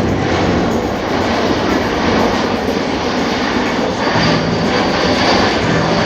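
Boeing C-17 Globemaster III's four Pratt & Whitney F117 turbofan engines running loud and steady on a slow-speed low pass, with a thin high whine joining about four seconds in.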